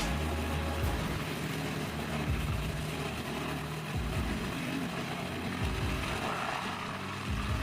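Large four-wheel-drive tractor's engine running steadily under load as it works through deep mud.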